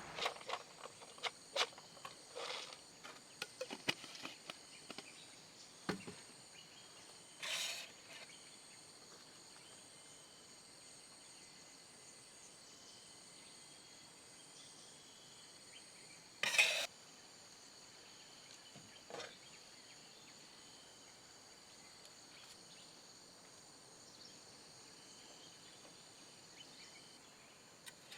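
Steady high-pitched chirring of insects, likely crickets, with scattered clicks and knocks over the first few seconds and two brief louder noises, one about seven seconds in and one about sixteen seconds in.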